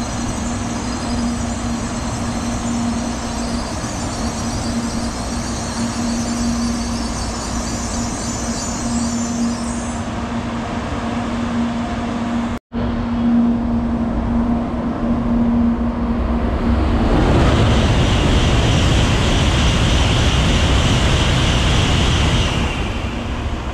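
N700-series Shinkansen train moving past close by: a steady running rumble and hiss with a low hum. After a break, a louder passage of a train close by sets in, and its noise drops off shortly before the end.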